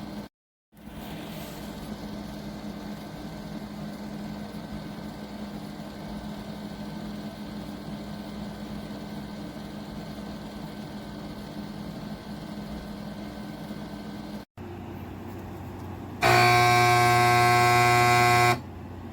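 Window air conditioner running with a steady hum. Near the end a much louder buzzing tone sounds for about two seconds, then stops.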